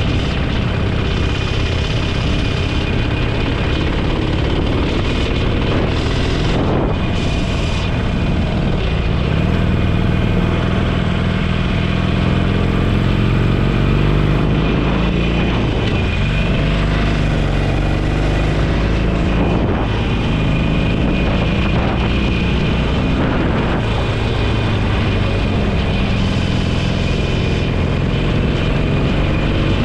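Motorcycle engine running under way with wind and road noise, its pitch rising and falling a few times as the speed changes.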